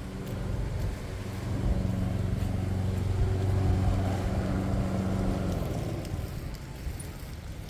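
An engine droning at a steady pitch, growing louder and then fading out about five and a half seconds in.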